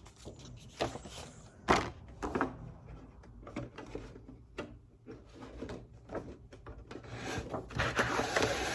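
Cardstock being handled and fed into a manual business card cutter, with light knocks and clicks. About a second and a half from the end, a louder scraping rasp starts as the cutter slices through the cardstock.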